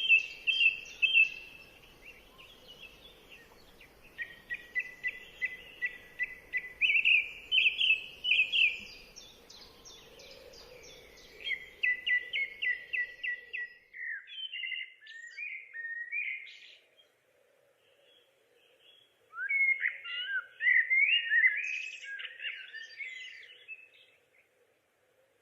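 Songbirds singing outdoors: a series of quick, high phrases of repeated notes, with a short pause about two-thirds of the way through before a last phrase.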